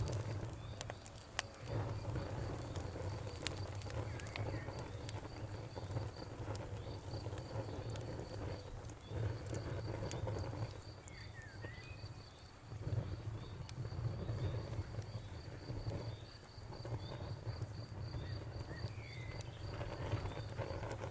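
Wood fire burning with a low steady rumble and scattered sharp crackles and pops. Crickets chirp throughout in a steady, rapid pulsing trill, and a few short bird calls come and go.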